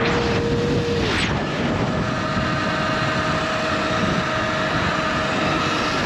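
Sur-Ron Light Bee electric dirt bike riding at speed: heavy wind rush on the microphone over a steady electric motor whine, which shifts in pitch about a second in and then holds.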